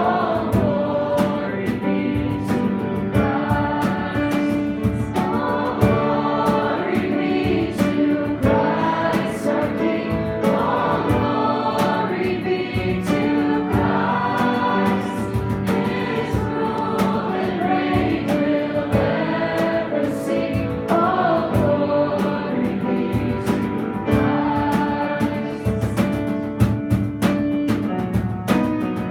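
Congregational worship song: a group of voices singing together over a band accompaniment with a steady beat.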